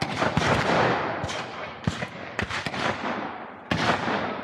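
Scattered black-powder gunfire from reenactors firing blanks: about seven shots in four seconds, irregularly spaced, each with a long echoing tail that overlaps the next.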